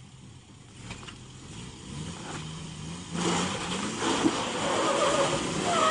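An SUV's engine revs under load as it strains to tow a stuck pickup truck back onto the road by a strap. The engine note rises, and it gets clearly louder about three seconds in.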